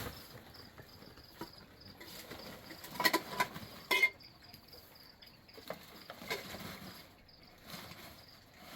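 Insects chirping in a fast, even, high-pitched pulse, with a few sharp clicks or knocks about three and four seconds in.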